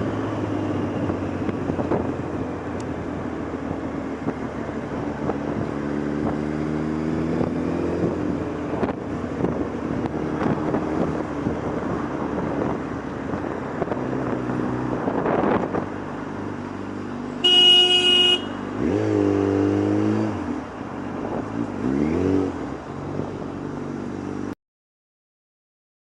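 Motorcycle engine running in traffic, revving up and down several times, with a horn sounding once briefly about two-thirds of the way through. The sound cuts off abruptly shortly before the end.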